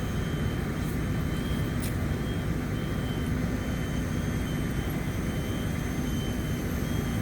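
Steady low engine rumble of fire apparatus running at the scene, with a faint high beep repeating about twice a second.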